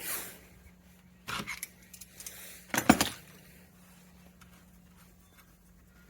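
Small metal tools and parts being handled and set down, clinking, with a loud clatter of knocks about three seconds in and only faint ticks after.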